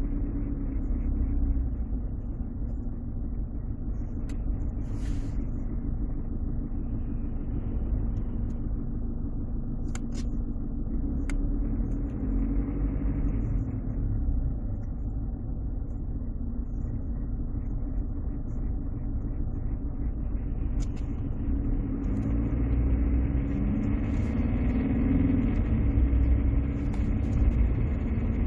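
Cabin sound of a Mercedes C200 CDI's four-cylinder diesel and automatic drivetrain running, a steady low rumble with a few short clicks. The engine pitch moves and the sound grows fuller and louder over the last several seconds.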